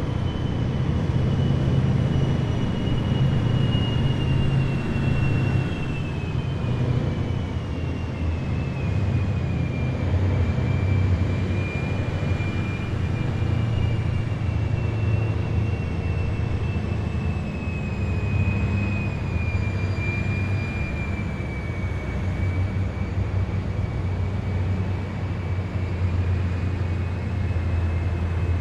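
Heavy military vehicles driving past in a column: a steady low engine rumble with a high whine that slowly falls in pitch.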